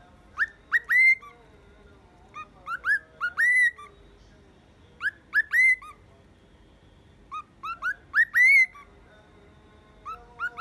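Cockatiel whistling: repeated phrases of a few quick upswept notes, each ending in a longer rising whistle, about every two and a half seconds, with a new phrase starting near the end.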